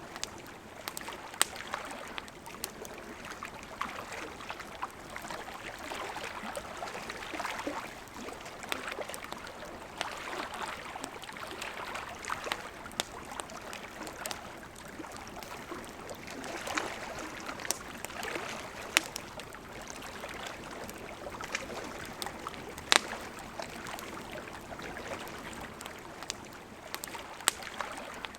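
River running with a steady rush of water, over which a wood campfire crackles with scattered sharp pops, a few of them standing out louder than the rest.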